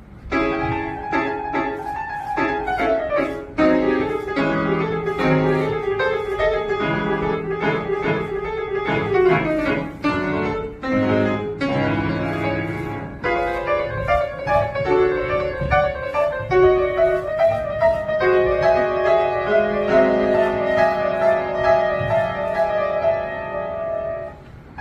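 Solo acoustic piano playing a quick, busy piece with many repeated notes, a melody over a running accompaniment. It starts suddenly at the opening and dips briefly near the end.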